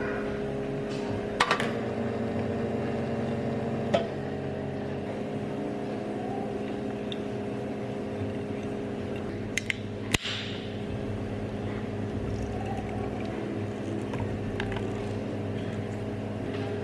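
Steady machine hum, several tones held together, with a few light clicks and clinks scattered through it and a sharper knock about ten seconds in.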